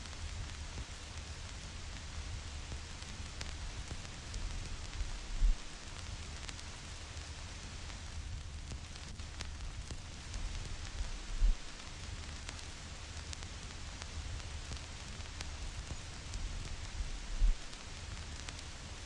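Vinyl record surface noise: steady hiss with scattered crackles and pops from the stylus riding a dusty groove, over a low rumble. Three low thumps stand out, evenly spaced about six seconds apart.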